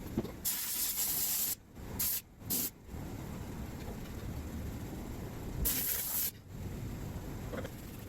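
Compressed-air detailing tool blowing in four short hissing bursts: one of about a second, two quick blasts close together, then another a few seconds later.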